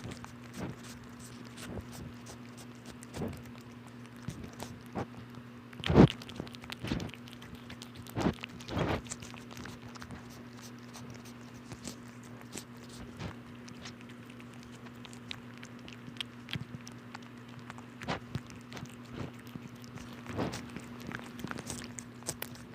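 A kitten chewing and crunching a snack, with irregular small crunches and clicks; the loudest come about six seconds in and again around eight to nine seconds.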